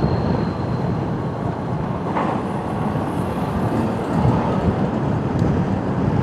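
Motorcycle on the move over a rough road: a steady rumble of engine, tyre and wind noise on the rider's microphone.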